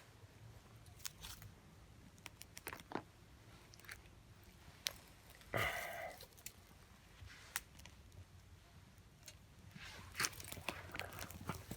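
Small wood fire crackling: scattered sharp snaps and pops, with a louder crackling burst about halfway through and quicker snapping near the end.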